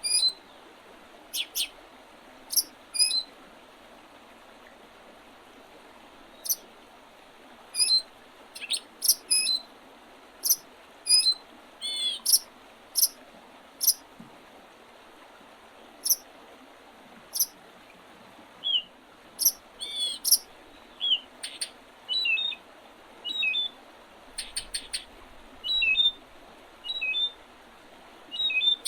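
Wild songbirds calling and singing in early spring: many short, separate high chirps and quick hooked notes scattered at irregular intervals, over a faint steady background hiss.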